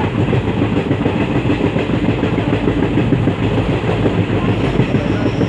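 Passenger train running along the track: a steady, loud rumble of wheels on rails.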